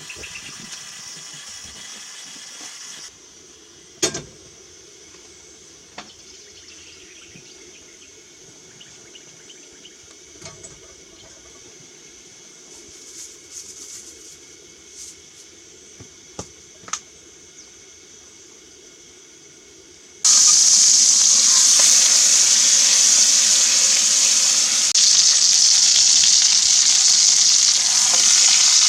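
Food sizzling in a hot frying pan, starting suddenly about two-thirds of the way through and staying loud and steady. Before it there are only a few scattered clicks and knocks.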